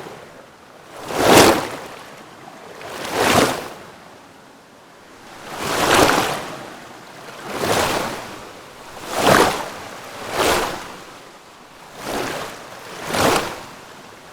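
Small waves washing in, each one a swell of hissing surf that rises and falls every one to two seconds.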